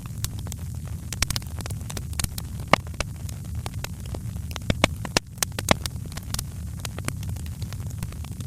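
Wood fire crackling, with frequent sharp, irregular pops and snaps over a low, steady rumble; the sound dips briefly about five seconds in.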